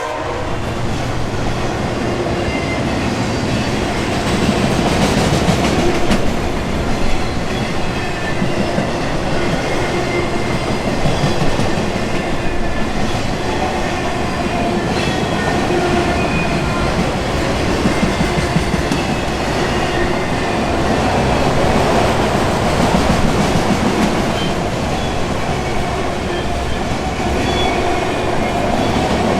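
Freight train of auto rack cars rolling past at speed: a steady rumble with wheels clacking over the rail joints and occasional faint high wheel squeals.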